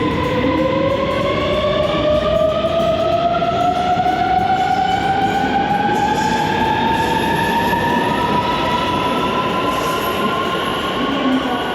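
Electric train pulling away from a station platform, its motor whine rising steadily in pitch as it gathers speed over a loud running rumble.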